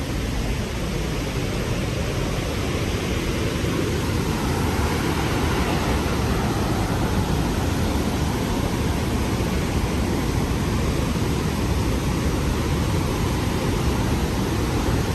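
Rhine Falls, a large river waterfall, giving a loud, steady roar of falling water.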